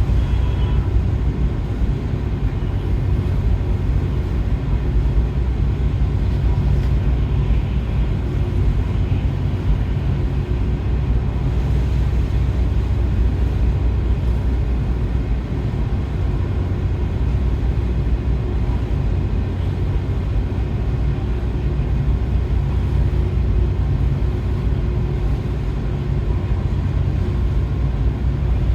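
A large car ferry's engines rumble steadily, with a few faint steady hum tones over the low drone, as the ship closes slowly on its berth.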